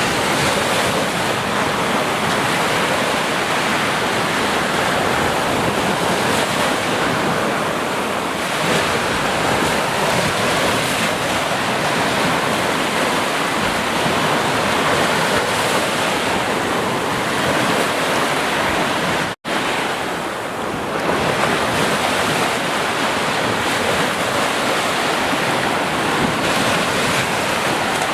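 Sea surf: a continuous wash of waves with gentle swells in strength. A split-second gap of silence cuts in about two-thirds of the way through, like an edit splice.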